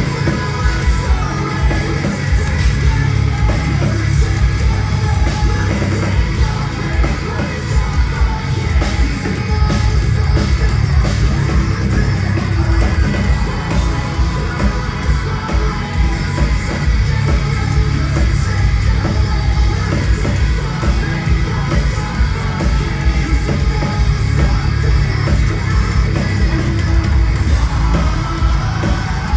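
Metalcore band playing live and loud: sung and yelled vocals over heavy drums and guitars.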